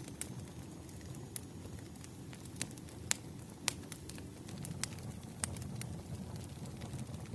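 Firewood burning, with irregular sharp crackles and pops over a low, steady rumble of the flames.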